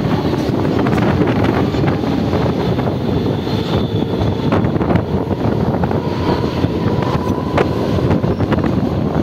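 Mumbai suburban local train running along a platform, heard from its open doorway: a steady rumble and rattle with wind on the microphone and a few sharp clicks.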